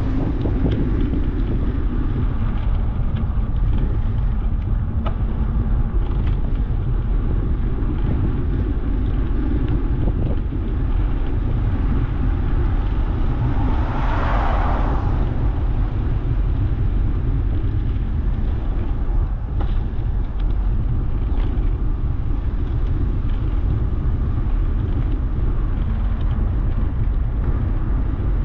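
Steady low wind rumble on the microphone of a moving bicycle, with road traffic; a vehicle swells past about halfway through.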